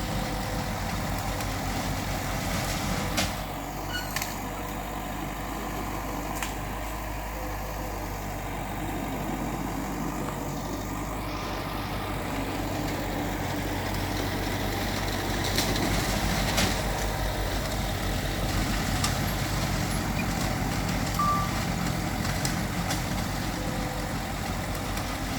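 Heavy diesel earthmoving machinery running steadily, with a few sharp metallic clanks.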